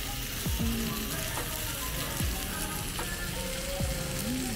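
Dakgalbi, spicy chicken stir-fry, sizzling steadily in a hot tabletop pan, with background music over it.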